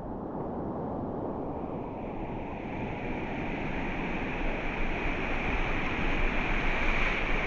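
Sea surf washing on the beach, a steady rushing that slowly grows louder, with a brighter hiss coming in after about two seconds.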